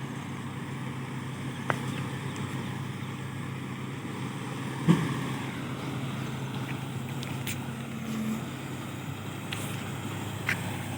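Heavy diesel engine idling steadily, with a few light clicks and one sharp knock about five seconds in.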